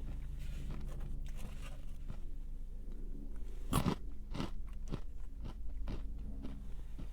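Close-up crunching of a crisp snack being bitten and chewed: a run of irregular crunches, the loudest about four seconds in, over a steady low hum.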